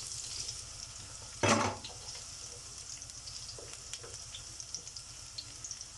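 Olive oil sizzling steadily in a hot paella pan, with one short knock about one and a half seconds in and a few faint ticks.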